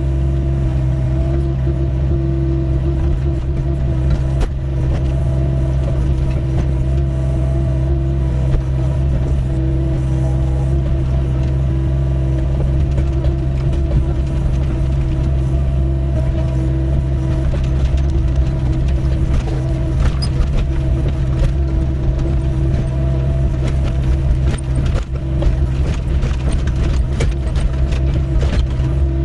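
Doosan DX55W wheeled excavator's diesel engine running steadily under working load, with scattered clicks and knocks in the second half as the bucket works stony ground.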